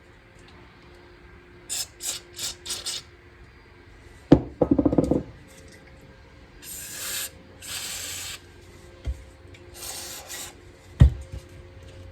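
Hissing sprays in bursts while varnish is cleaned out of a gummed-up small-engine carburetor: four quick spurts, then three longer sprays. A sharp knock with a brief rattle of small metal parts comes a little after four seconds, and another knock near the end.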